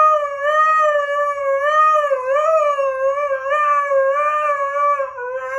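A dog howling in one long, unbroken howl that holds a steady pitch with a slight waver.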